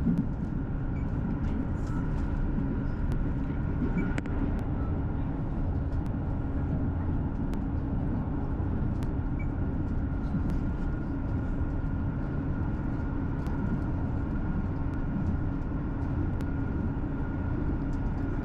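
Cabin noise of a Class 158 diesel multiple unit running steadily: a constant low rumble from the wheels and underfloor diesel engine, with a steady whine above it and a few faint ticks.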